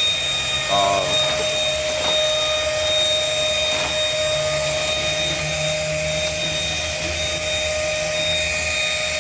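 Dirt Devil Simpli-Stick stick vacuum running steadily, with a high whine and an airy hiss.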